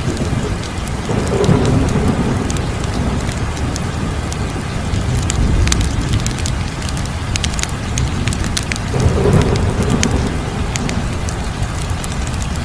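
Wood fire crackling, with irregular sharp pops over a steady low rumble of flames that swells twice, about a second in and about nine seconds in.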